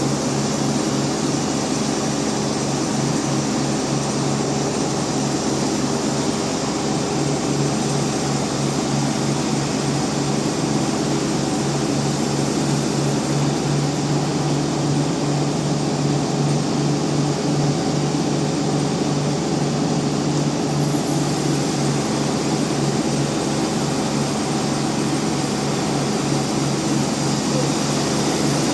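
Band sawmill running steadily, a constant machine hum with a noisy wash over it.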